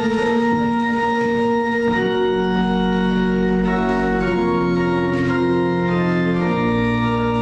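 Church organ playing slow sustained chords that change every second or so, with a deep pedal bass note joining about six and a half seconds in.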